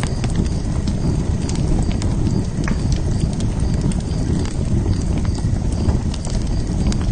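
Wood fire burning in a fire pit: a steady low rumble of flames with scattered sharp crackles and pops from the burning wood.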